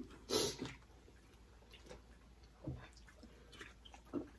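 Faint chewing and mouth sounds of people eating pizza: a short breathy sound just after the start, then scattered soft wet clicks.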